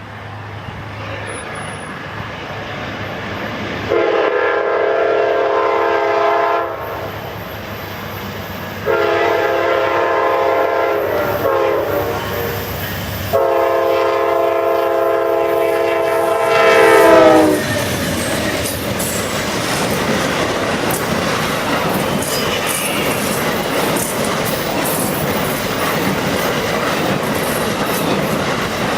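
Diesel locomotive's multi-tone air horn sounds three long blasts, the last the longest and dropping in pitch as it ends, while the train approaches. The train then passes with a steady rumble and clatter of wheels on the rails.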